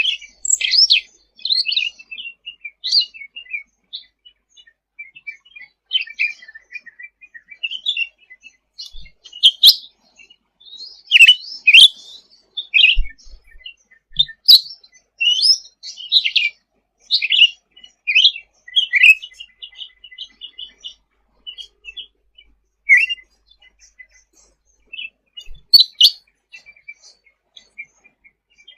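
Cucak ranting in full song: a continuous run of short, high chirps and quick trills, with a few sharper, louder notes among them.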